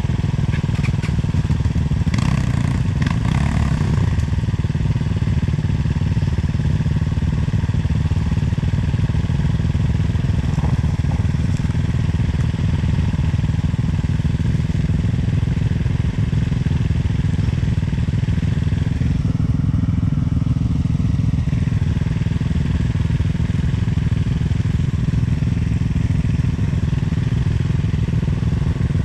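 Sherco 300 two-stroke enduro motorcycle engine running at a fairly steady speed, heard from the rider's helmet, with a brief rattle a couple of seconds in.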